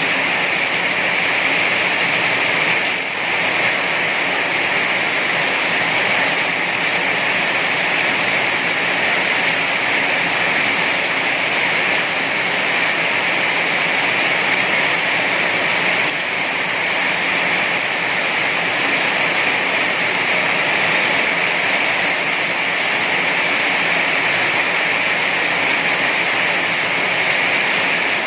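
Heavy rain falling in a steady, dense hiss, with a brief slight dip in level about three seconds in.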